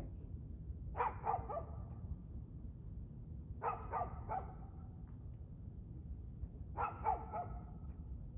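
A dog barking in three short runs of three or four quick barks each, roughly every three seconds, over a steady low rumble.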